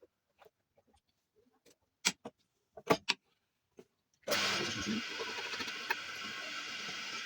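A few sharp knocks and clicks, then a little over four seconds in an electric motor switches on abruptly and runs steadily with a whirring hum: the washing-machine motor driving a homemade belt sander.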